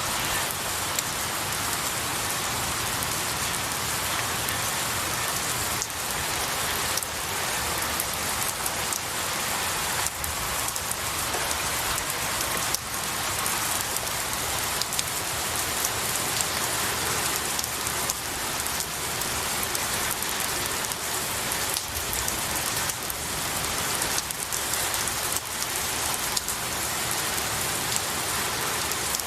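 Steady rain falling on pine needles and branches: a dense, even hiss with many small drop ticks.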